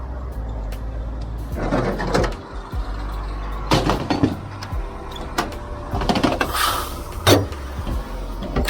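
A heavy truck's diesel engine running steadily, with several short noisy bursts of hiss and clatter about two seconds in, about four seconds in, and a longer one between six and seven seconds in.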